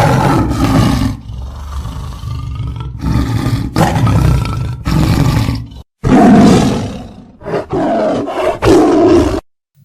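Tiger roaring and growling, several loud roars in a row, cutting off sharply about nine and a half seconds in.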